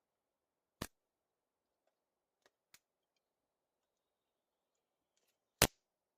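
Two sharp knocks or clicks, one about a second in and a louder one near the end, with two faint ticks between them, over a faint steady background hiss.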